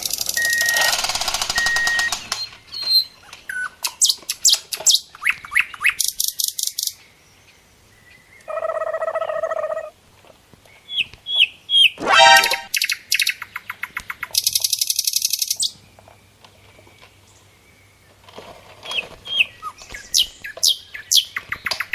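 Bird-like chirping and tweeting in quick runs of short high notes, with a short buzzing tone about nine seconds in.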